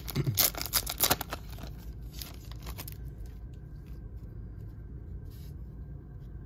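A foil trading-card pack wrapper being torn open and crinkled for about the first three seconds, followed by faint rustling and light taps as the cards are handled.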